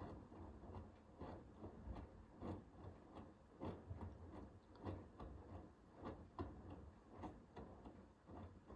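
Hoover H-WASH 500 washing machine tumbling a cotton load early in a 60 °C wash, with soft irregular knocks and clicks about once or twice a second over a low motor hum.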